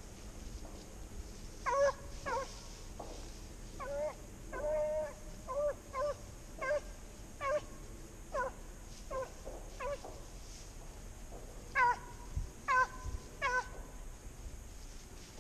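Beagle baying on a rabbit's trail: a string of short, high yelping barks, coming irregularly one or two a second, with a pause of about two seconds before the last few.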